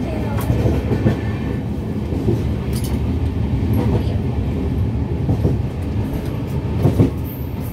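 Passenger train running, heard from inside a Vistadome coach: a steady low rumble of wheels on rail with a few sharp clacks and knocks, the loudest about seven seconds in.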